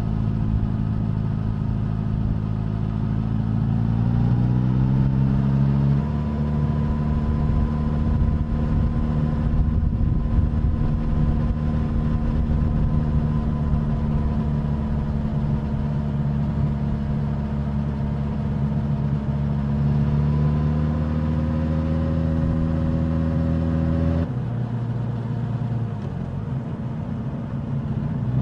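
Suzuki GSX-S1000's inline-four engine and exhaust under way. The revs rise over a few seconds, hold steady, creep up a little more, then drop suddenly near the end.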